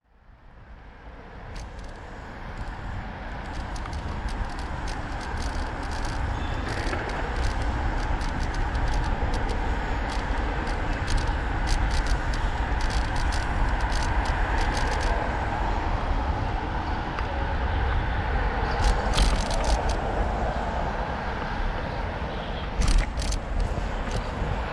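Street ambience on a bicycle ride: wind rumbling on the microphone over steady road traffic noise, with scattered clicks and rattles. The sound fades in over the first couple of seconds.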